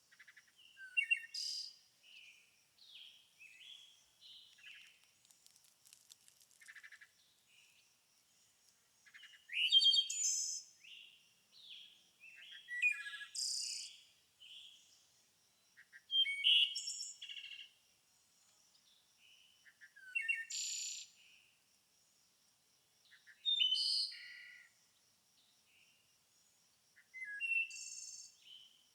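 Several songbirds singing and chirping: one bird repeats a loud, quick song phrase every three or four seconds, with softer chirps from other birds in between. A faint steady high tone runs underneath.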